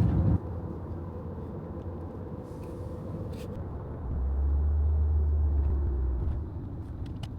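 Car engine and road rumble, with a deeper, louder drone swelling for about two seconds in the middle.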